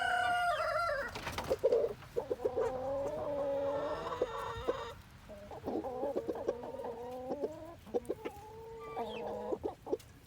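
Chickens clucking and squawking, with several long, drawn-out calls, one held for about three seconds, between shorter ones and a few sharp clicks.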